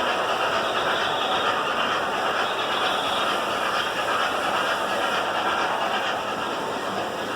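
Model train running on the layout's track: a steady, even whirring hiss of wheels and motor with no distinct beats.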